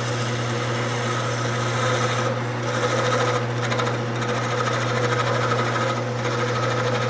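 Wood lathe running with a steady motor hum while a turning tool cuts into the spinning wood. The cutting noise swells and eases in stretches as the tool is fed in a little and backed off to keep its tip from overheating.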